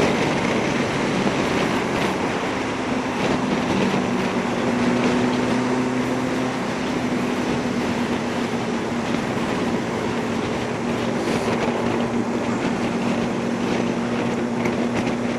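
Yamaha R1 sport bike's engine running steadily at low revs while cruising slowly, with heavy wind and road noise on a helmet microphone.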